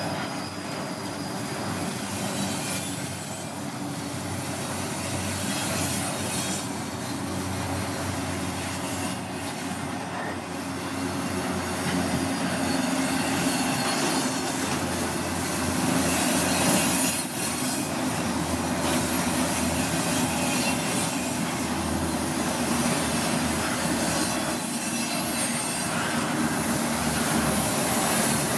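Double-stack intermodal container train rolling past, its steel wheels running on the rails in a steady, continuous noise that grows a little louder in the second half.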